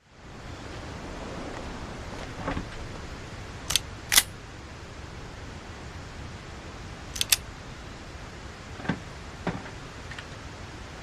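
Sharp mechanical clicks over a steady background hiss: two loud pairs a few seconds apart, then three softer knocks near the end.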